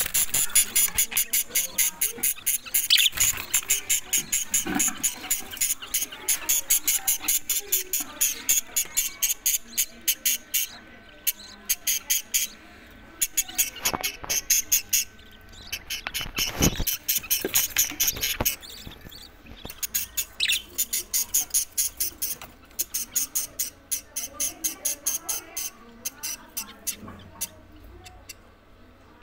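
Parrot chicks giving begging calls: fast runs of short, high squeaks, about four or five a second, broken by a few short pauses.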